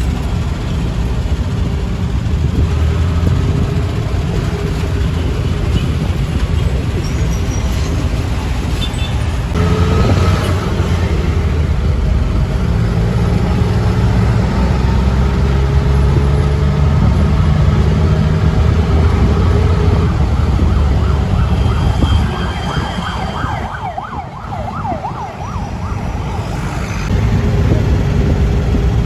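Motor vehicle running on the road: a steady low engine and road rumble whose tones shift in pitch. It drops quieter for a few seconds near the end, then comes back up.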